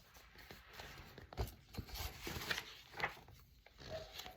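Faint handling noise: soft rustling with a few brief knocks in the middle of the pause.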